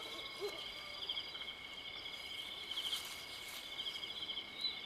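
Steady high-pitched trilling of a night insect chorus, crickets or similar. Two short, lower chirping calls sound right at the start.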